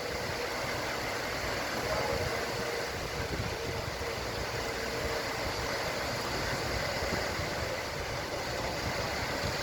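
Concrete pump truck's diesel engine running steadily as it pumps concrete: a constant, unchanging mechanical drone.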